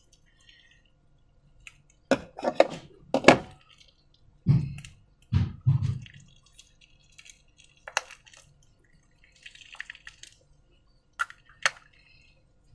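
Slime being worked by hand from transparent balloons, with wet, sticky squelching. A few sharp sticky pops come about two to three seconds in, then some dull low squelches, then lighter scattered clicks.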